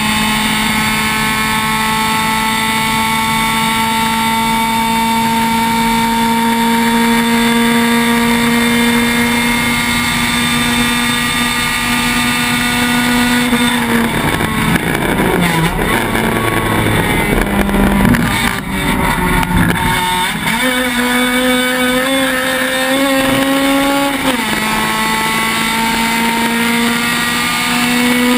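Honda Civic race car engine heard from inside the cockpit at high revs, its pitch slowly creeping up for about thirteen seconds. It then breaks into several seconds of rough, uneven noise as the driver lifts and the revs fall and jump. It pulls hard again, with a drop in pitch at a gear change about two-thirds through, then climbs once more.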